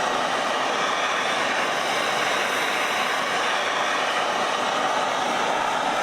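Blowtorch flame hissing steadily while it heats a steel Acme screw, bringing it up to temperature for an oil-blued finish.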